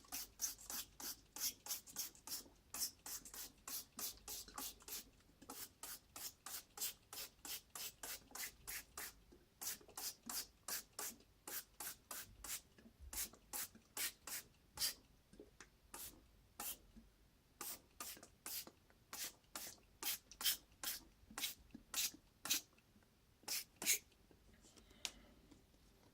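Repeated short scratchy strokes of a hand tool or brush rubbing on a surface, about three a second at first, then slower and more irregular after about ten seconds.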